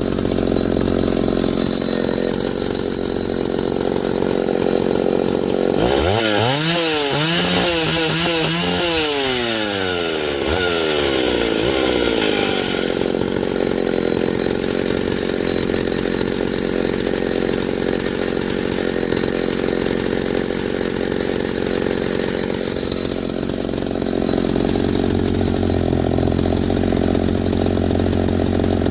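Vintage Husqvarna L65 two-stroke chainsaw running at a steady low speed. About six seconds in it speeds up sharply, its pitch wavering for several seconds, then drops back to its low steady running by about twelve seconds in. The owner judges it to be running okay after a small tuning adjustment.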